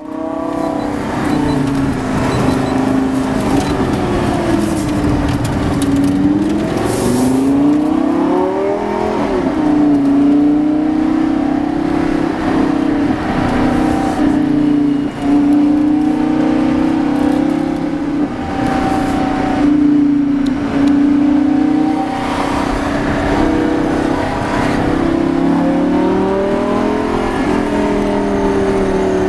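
Lamborghini Gallardo LP570-4 Superleggera's V10 engine and exhaust running while driving, mostly at steady revs. The pitch climbs and drops back about eight seconds in, and climbs again near the end.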